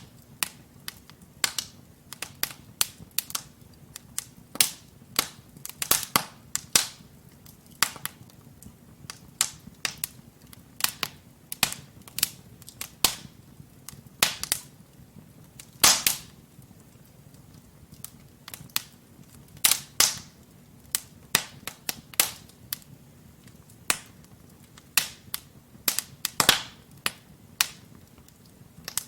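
Wood fire crackling in a fireplace: burning logs giving sharp, irregular pops and snaps, several a second at times, over a faint low rumble of flame.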